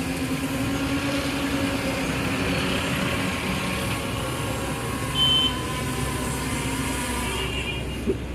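Airplane engines running with a steady rumble and hum during landing, with a short high beep about five seconds in.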